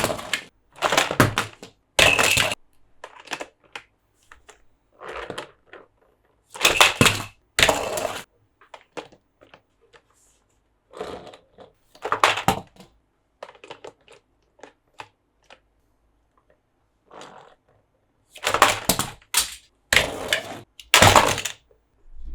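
Plastic crackling and clicking as a plastic toy and its packaging are handled, in irregular bursts with short pauses.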